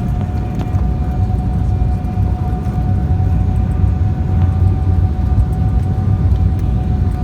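Embraer E190 airliner with its twin turbofan engines during a landing approach: a steady low rumble of engine and airflow noise with a steady whine over it.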